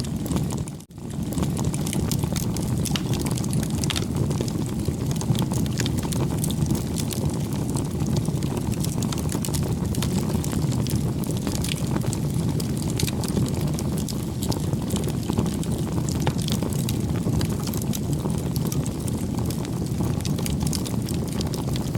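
Wood bonfire burning: a steady low rumble of flames with frequent small crackles and pops. The sound dips out briefly about a second in.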